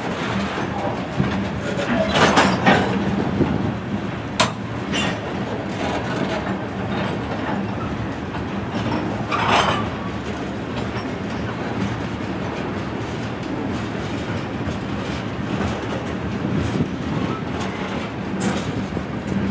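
Freight train of covered hopper cars rolling past close by: a steady noise of steel wheels running on the rails. A few louder sharp sounds stand out about two, four and a half, and nine and a half seconds in.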